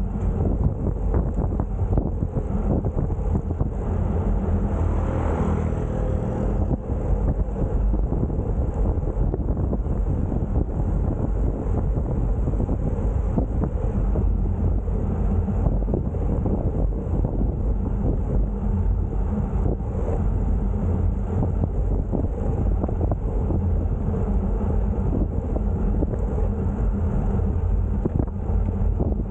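Steady wind buffeting on the microphone of a camera riding along on a bicycle. About five seconds in, a motor vehicle's engine rises and fades as it passes.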